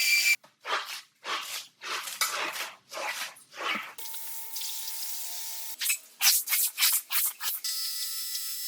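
Wet carpet being worked by hand in repeated scrubbing strokes, about two a second, then a quicker run of strokes. Near the end comes a steady hiss of a cleaning machine running.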